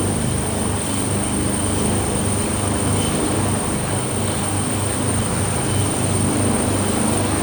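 Helicopter's turbine engines and rotor running with a steady, loud drone and a low pulsing beat.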